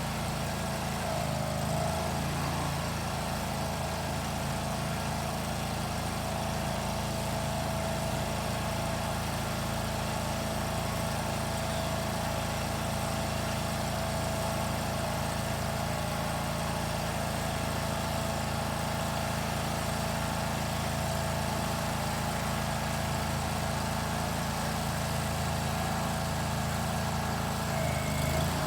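An engine running steadily at a constant speed, its pitch wavering briefly about a second in and again near the end.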